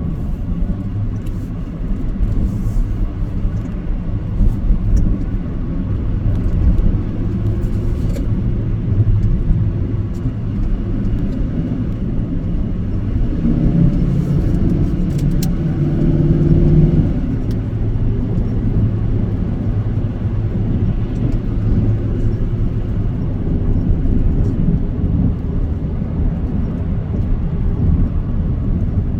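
Vehicle engine and road noise, a steady low rumble, swelling into a louder pitched engine sound for a few seconds near the middle.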